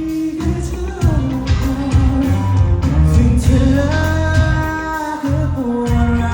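A Thai pop-rock band playing live, with a singer holding long sung notes over bass and drums, as heard from the crowd.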